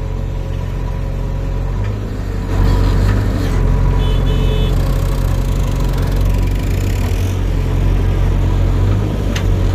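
Diesel engine of a JCB 3DX backhoe loader running steadily, picking up revs about two and a half seconds in and holding there, with a few rattling knocks near the end.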